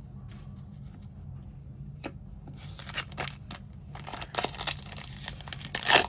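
A foil card-pack wrapper torn open by hand, crinkling and crackling, getting louder and busier over the last few seconds.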